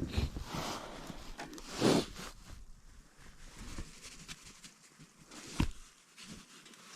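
Rustling and scraping of clothing and gear being handled, with a louder scrape about two seconds in and a short knock later on.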